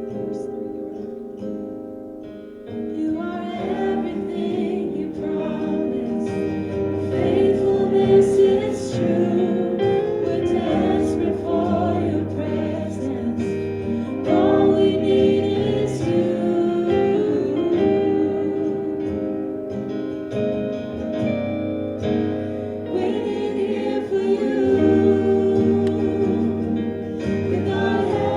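Praise team performing a contemporary worship song: several voices singing long held notes together over instrumental accompaniment, growing fuller about three seconds in.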